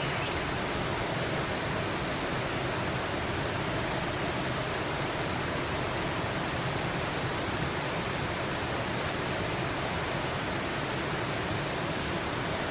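Steady rushing noise of flowing water, even and unbroken throughout.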